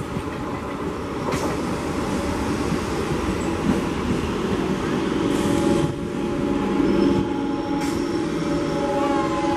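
Indian Railways electric multiple unit (EMU) local train running on the track: a continuous rumble of wheels on rail with a steady electric hum, growing a little louder as it approaches.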